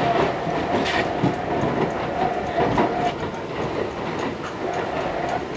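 Subway train running on the tracks: a steady rumble with a thin, even whine, and the wheels clicking over the rail joints.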